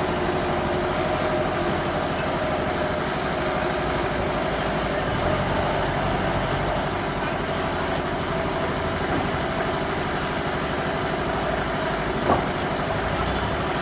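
Bandsaw sawmill running with a steady mechanical drone and a held hum. A single short sharp knock sounds near the end.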